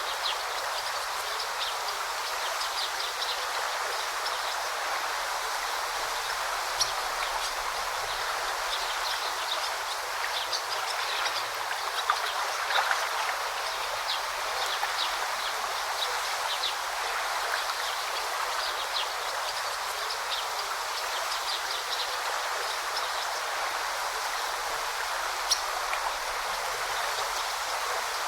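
A forest stream babbling steadily, with small birds chirping in short, scattered calls throughout. Two sharp ticks stand out, one about a quarter of the way in and one near the end.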